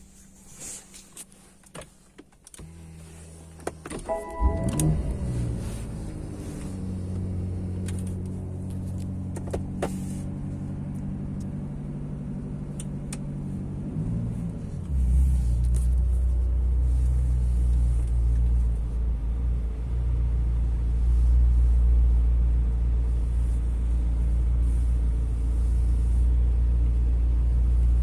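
A BMW safety car's engine starting about four seconds in and then running with a steady idle. About halfway through it becomes much louder and deeper and stays that way.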